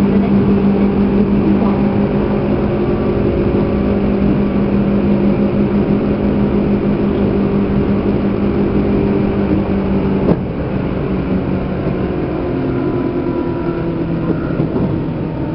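Running sound heard inside a Seibu New 2000 series electric motor car: a steady hum of the traction motors over wheel and rail noise. About ten seconds in the hum cuts off abruptly with a click, leaving slightly quieter rolling noise with fainter tones.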